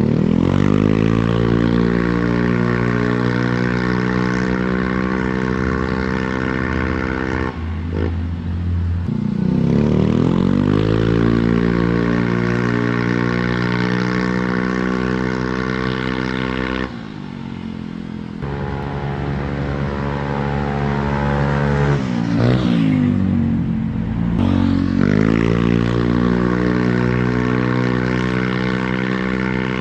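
Automatic scooter's single-cylinder engine revved through an aftermarket quiet-style copy-CMS exhaust. It is held at high revs for several seconds at a time, three times, with the revs dropping back in between and a quick blip about two-thirds of the way through.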